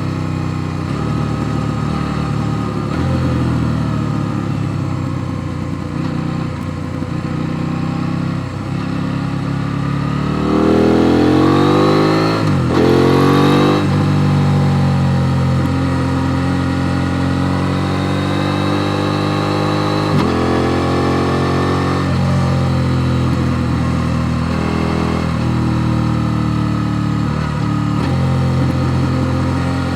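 KTM Duke 890 R's parallel-twin engine running under way. About a third of the way in the revs climb steeply and fall twice at gear changes, and the rest is steadier engine note with a smaller drop near the middle.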